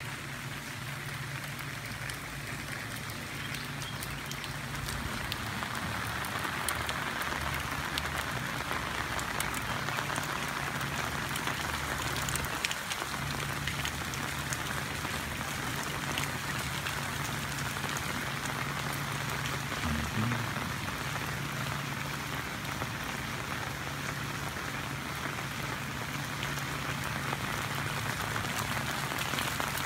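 Steady rain falling on a wet driveway and garden, with a steady low hum underneath.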